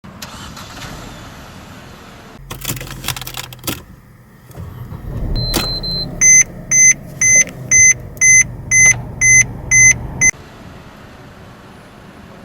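Mercedes-Benz C200 Kompressor with its supercharged four-cylinder being started: a rattle of keys, the engine catching about halfway in, then a run of about nine loud beeps, two a second, before it settles to a quiet idle.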